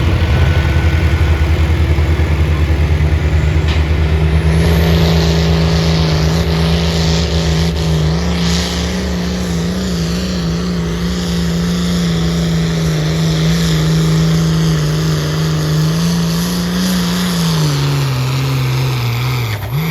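Pulling tractor's engine running flat out under heavy load as it drags the sled, holding a steady pitch. About seventeen seconds in the pitch sags as the engine bogs down and the pull comes to an end.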